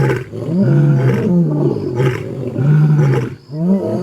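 Lion roaring in a series of repeated calls, about five in quick succession, each rising and then falling in pitch.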